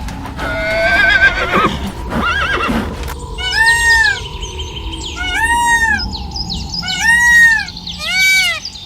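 A horse whinnying with a quavering, shaking call over the first few seconds. Then a series of short calls from another animal follows, each rising and falling in pitch and repeating faster toward the end.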